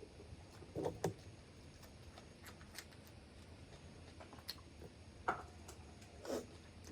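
Mud crab being eaten close to the microphone: scattered sharp clicks and short crunches from shell and mouth, about one a second.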